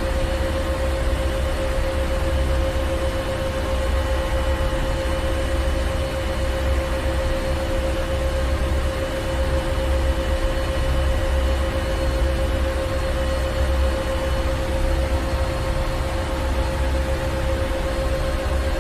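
Ship's engine room machinery running steadily: a deep low rumble with a constant droning hum and an even hiss over it.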